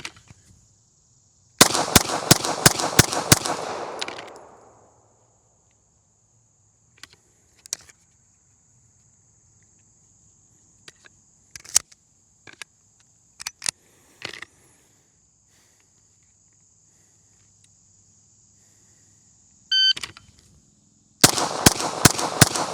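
Rapid pistol fire of a bill drill: a string of about six shots in under two seconds, echoing, and a second rapid string starts near the end just after a shot-timer beep. A few single sharp cracks fall between the strings, over a steady insect buzz.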